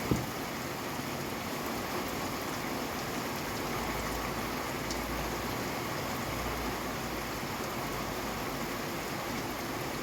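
Steady rain falling, an even hiss of drops. A single sharp tap sounds right at the start, the loudest moment, and a faint low rumble rises under the rain in the middle.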